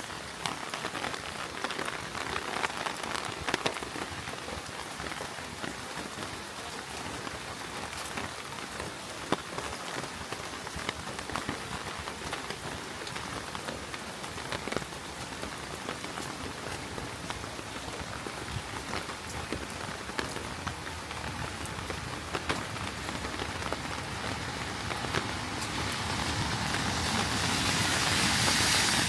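Heavy rain falling steadily on a city street, with many sharp individual drop ticks. A louder rushing noise builds near the end.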